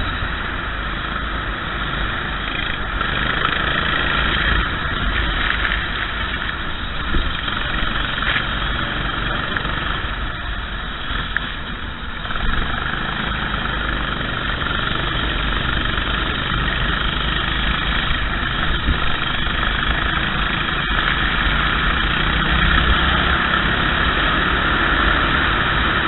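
Racing kart engine running continuously under way, with a steady rush of noise around it.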